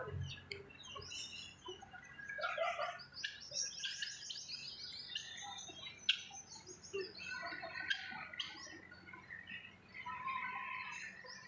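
Birds chirping and twittering, many short calls overlapping, with a quick run of repeated high notes about three to five seconds in.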